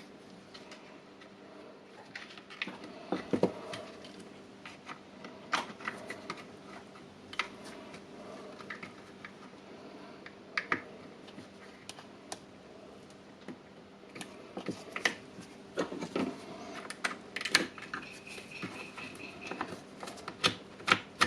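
Irregular light clicks and taps of small parts and plastic housing pieces being handled and fitted into a cordless rotary hammer drill during reassembly.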